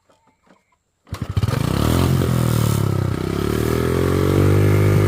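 Old motorbike engine starting about a second in and then running loudly, its pitch rising as the throttle is opened, dipping briefly and rising again.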